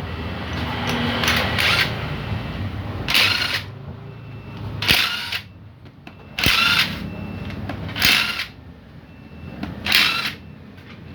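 A power tool run in about six short bursts, roughly every one and a half to two seconds.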